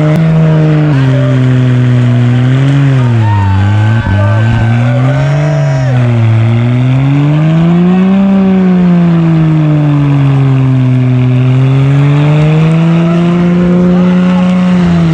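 Car engine running at high revs without a break, its pitch rising and falling slowly every two or three seconds, with a brief drop about four seconds in.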